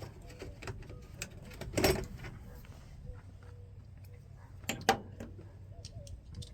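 Screwdriver being worked by hand on a truck door's latch screws: small metallic clicks and scrapes, with two louder clanks about two and five seconds in.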